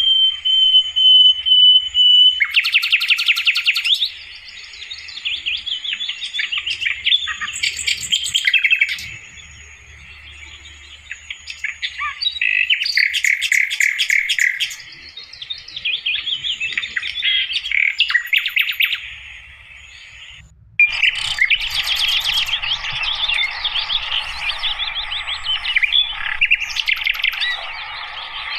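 Sikatan londo flycatcher singing: rapid, varied chirping and twittering phrases broken by short pauses, opening with a held whistle.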